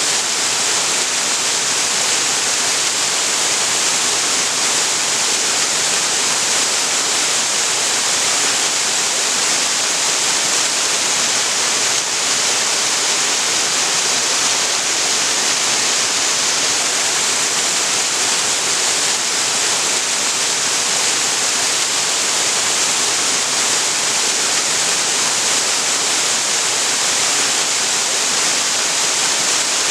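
Waterfall: water pouring and splashing down a creek waterfall, a steady loud rushing hiss strongest in the high range, unchanging throughout.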